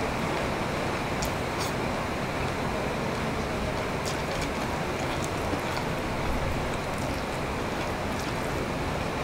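Steady heavy rain making an even hiss, with a few sharp clicks of eating by hand close to the microphone.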